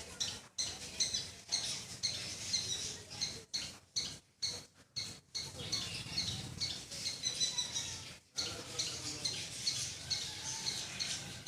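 Small squirrel making loud, rapid, repeated high chirping calls, breaking off briefly a few times in the middle.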